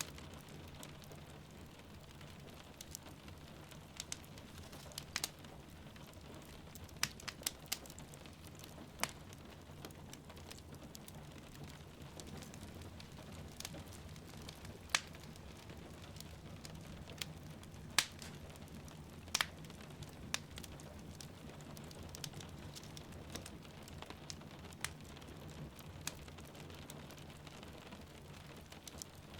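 Wood fire crackling, with sharp pops at irregular moments over a steady patter of rain.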